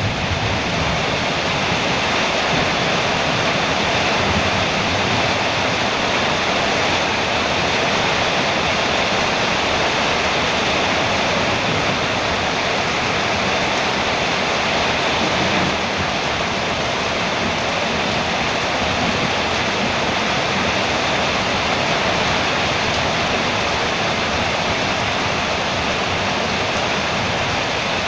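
Heavy rain falling steadily on a metal roof, an even, unbroken hiss of drops.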